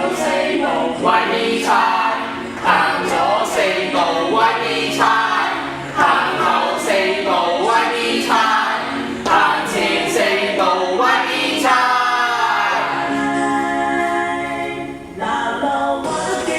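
Group of voices singing an upbeat pop song over music with a steady beat, holding a long note about three-quarters of the way through.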